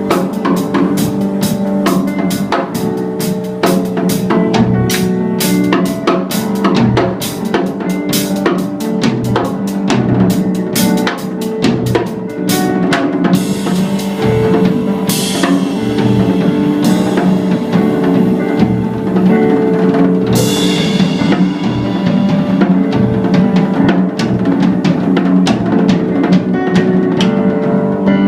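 A band playing an instrumental passage: a drum kit beats steadily with bass drum and snare over sustained guitar and bass tones, with cymbal crashes about 14 and 20 seconds in.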